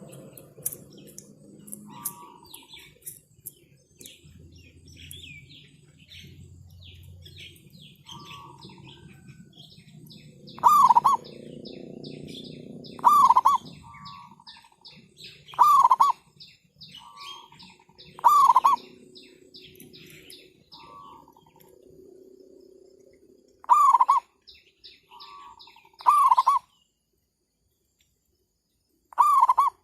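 Zebra doves cooing: a loud coo repeated seven times, about every two and a half seconds, starting about a third of the way in, with softer, shorter coos between them. Small birds chirp high-pitched throughout.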